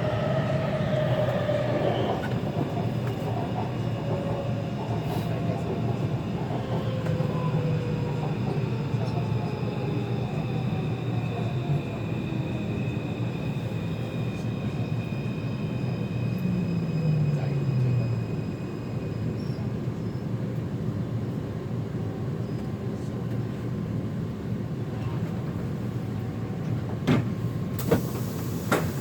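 Taipei Metro C341 electric train heard from inside the car, braking into a station: the traction motors whine, falling steadily in pitch, until the train comes to a stop about two-thirds of the way in. The car then stands quietly with a few sharp clicks near the end.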